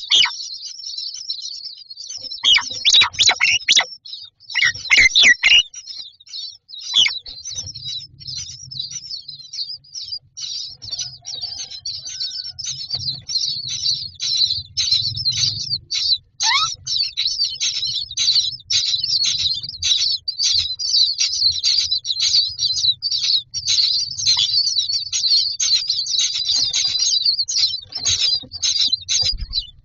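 Common myna nestlings begging in the nest box: a dense, rapid stream of high chirps, several a second, with a few louder, harsher calls in the first few seconds.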